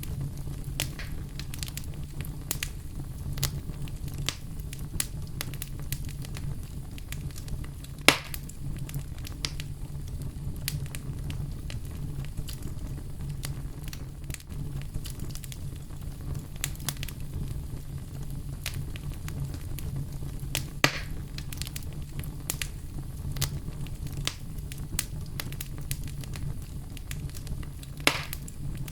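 Bonfire burning with a steady low rumble of flame and frequent crackles of burning wood, with three louder pops about 8, 21 and 28 seconds in.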